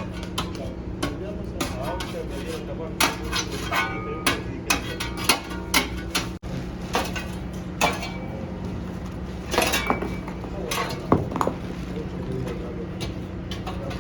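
Irregular clinks and knocks, some sharp and ringing, over a steady mechanical hum.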